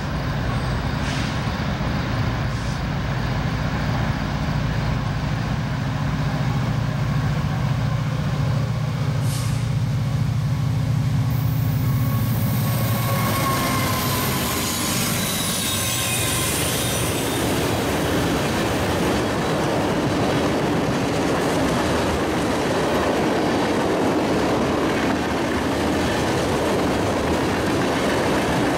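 Diesel freight train passing close by: a steady low locomotive engine rumble as it approaches, thin high wheel squeals as the BNSF locomotive goes by around the middle, then the loud, even rushing of tank cars rolling past.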